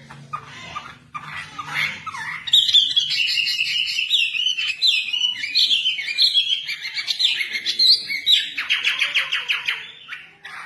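Caged wambi songbird singing: a fast, varied string of rising and falling whistled notes, breaking into a rapid even trill near the end.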